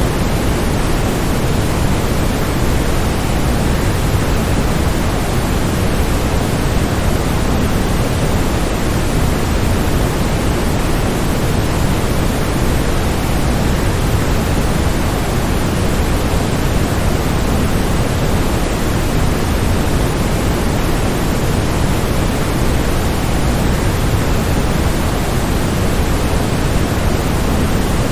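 Waterfall: a steady, unbroken rush of falling water, fuller in the low end, with no change in level.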